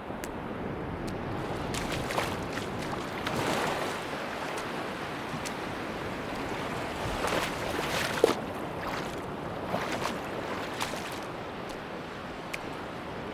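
Sea waves washing onto a beach in a steady rush, swelling twice, with scattered short clicks and ticks over it.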